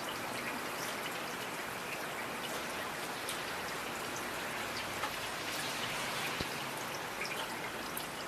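Steady rain falling, with single drops landing close by as sharp, irregular ticks over the even hiss.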